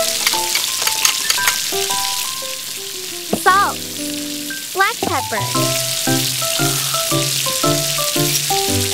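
Scrambled eggs sizzling as they fry in oil in a miniature steel wok, with light background music of short plucked notes. About halfway through there is a brief warbling glide in pitch.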